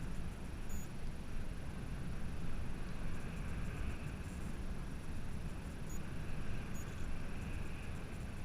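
Wind buffeting the microphone: a constant, fluttering low rumble without any clear tone.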